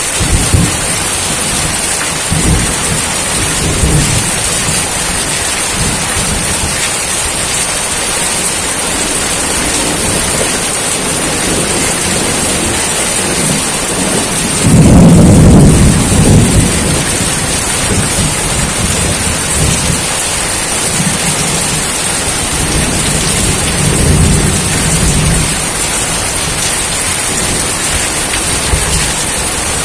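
Steady heavy rain, with low rolls of thunder; the loudest roll comes about halfway through and lasts about two seconds.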